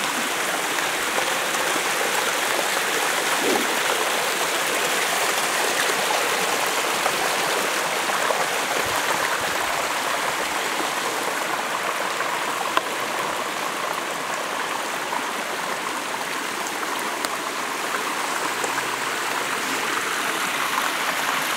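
Small forest stream rushing and splashing down a little rocky chute, a steady, even water noise.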